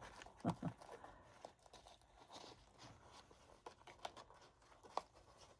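Soft paper rustling and small clicks as a paper tag is worked into a pocket of a handmade paper journal.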